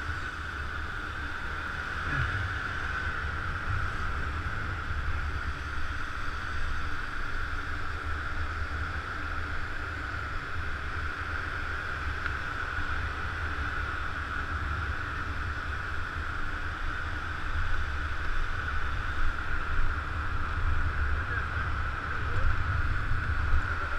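Scooter riding noise: a steady low wind rumble on the microphone with a constant hum above it, getting a little louder and gustier near the end.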